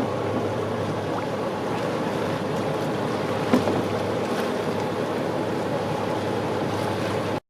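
Motorboat engine running steadily under wind and water noise, with a single knock about halfway through. The sound cuts out abruptly at the very end.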